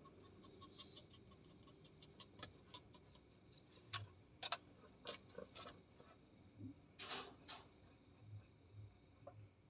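Near silence: room tone with a few faint, scattered clicks and taps, the clearest about four seconds in and again about seven seconds in.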